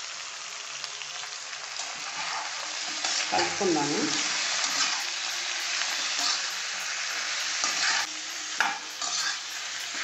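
Raw chicken pieces sizzling in hot mustard oil in a kadai. From about three seconds in, a metal spatula scrapes and stirs them through the pan in repeated strokes.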